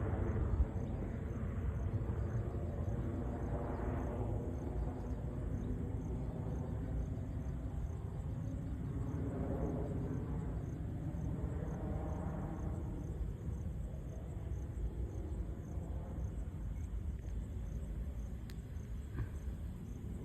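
Helicopter droning, a steady low rumble with engine tones that rise and fall a few times.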